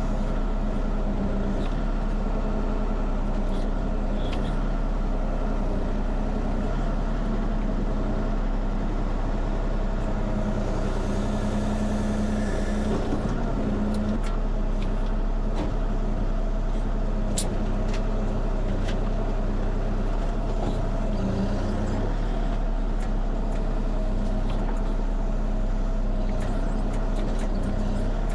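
Kubota KX040 mini excavator's diesel engine running steadily under load as it works. A burst of hiss comes about ten seconds in, and a few sharp cracks follow a few seconds later.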